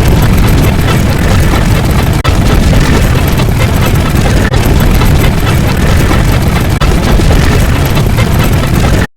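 A loud, continuous rumbling noise effect, heavy in the low end, made of four back-to-back stretches of about two seconds each with brief drop-outs between them. It cuts off suddenly near the end.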